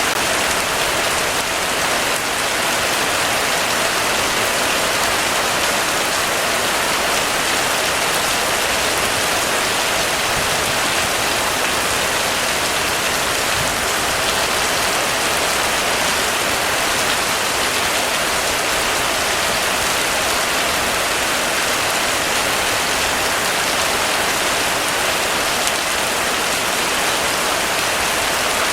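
Heavy rain falling steadily on surfaces, a dense even hiss with no let-up.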